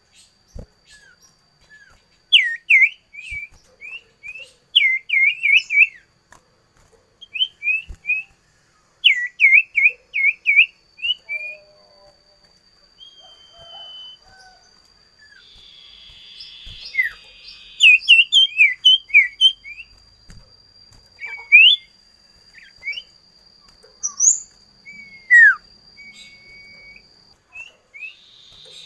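Common iora calling: quick runs of short, clear whistled notes that sweep sharply in pitch, given in bursts of several notes with pauses between. A thin steady high tone runs behind much of it.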